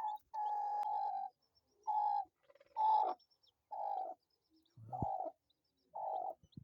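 Broody hen calling in protest while her eggs are checked: one long drawn-out call, then shorter calls about once a second. Faint peeping of newly hatching chicks sounds under her.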